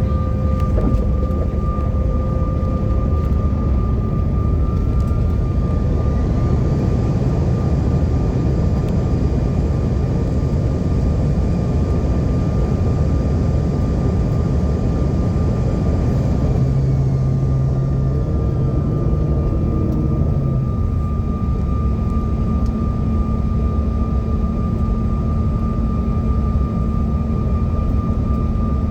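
Jet airliner engines and airflow heard from inside the cabin as a loud, steady rumble with a constant whine. About six seconds in, the engine whine rises in pitch, holds for about ten seconds, then winds back down.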